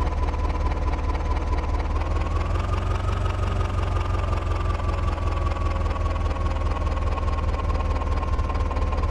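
Heavy diesel engine running steadily with a deep rumble. A whine rises a little about two seconds in, then slowly eases back down.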